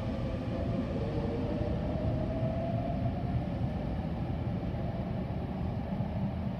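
Sotetsu electric commuter train pulling away along the elevated track, a steady low running rumble with the traction motor whine rising in pitch as it gains speed.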